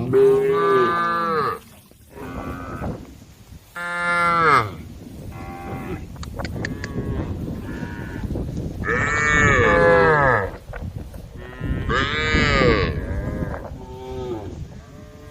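Cows mooing over and over, one loud drawn-out call after another. Several calls overlap, with the loudest at the very start, about four seconds in, around nine seconds and around twelve seconds.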